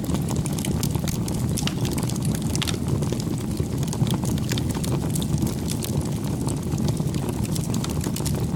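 Campfire burning: a steady low rumble of the flames with many small, irregular crackles and pops from the burning wood.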